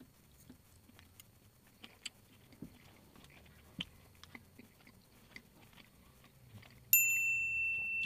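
Faint chewing and small mouth clicks from a bite of poutine. About seven seconds in, a sudden high chime sounds and rings on as one steady tone, slowly fading.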